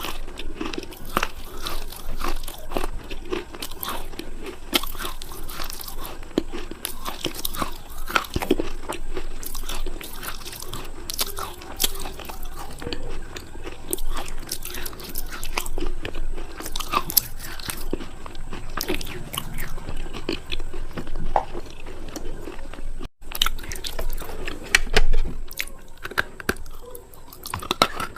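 Close-miked biting and chewing of something hard and crunchy, with irregular sharp crackles and crunches throughout.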